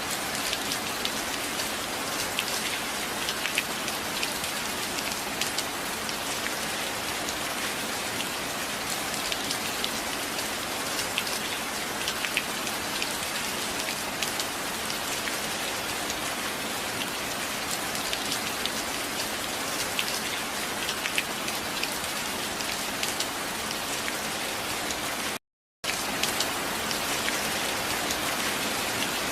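Steady rain, an even hiss dotted with many sharp drop ticks. The sound cuts out to silence for about half a second near the end, then resumes.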